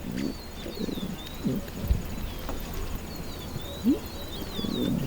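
Doves cooing in low, repeated notes, with small birds chirping high and thin over them.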